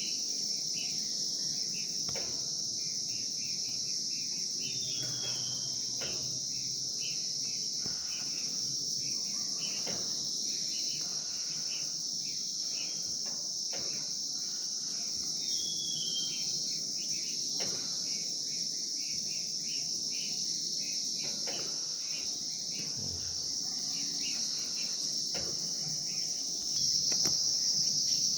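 A steady, high-pitched insect drone with many short bird chirps and a couple of brief falling calls over it; the drone grows louder near the end.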